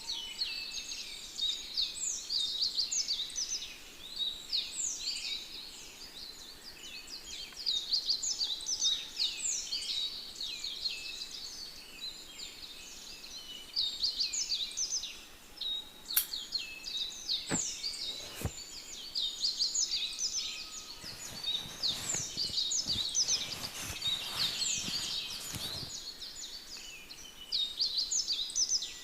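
Many small birds chirping and singing at once, a dense, continuous chorus of quick high notes. A few sharp clicks come past the middle, and a soft rustle follows a few seconds later.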